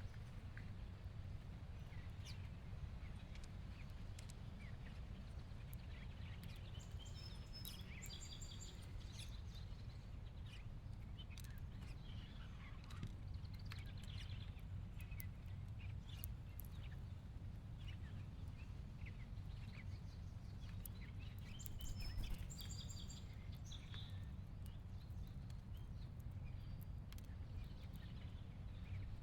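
House finches giving short, high chirps, in two bunches about a quarter and three-quarters of the way through, over a steady low background rumble, with scattered light clicks.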